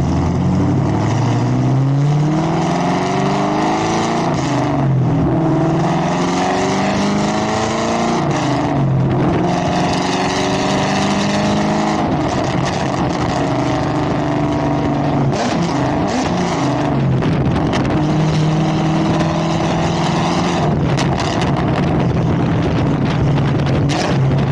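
Loud exhaust of a 2022 Camaro ZL1's supercharged 6.2-litre V8, straight-piped behind 2-inch Texas Speed headers. The engine's pitch climbs and falls slowly several times, then settles to a steadier run near the end.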